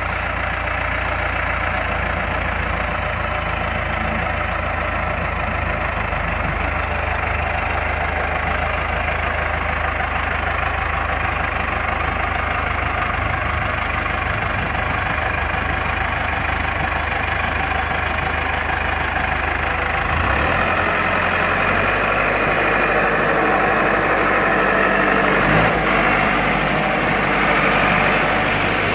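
Valmet 705 tractor's diesel engine idling steadily. About two-thirds of the way through, its note changes as the engine speed shifts.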